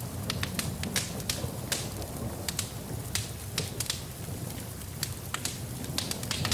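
Wood fire in a fireplace crackling, with frequent irregular sharp pops over a steady low rumble, and rain mixed in.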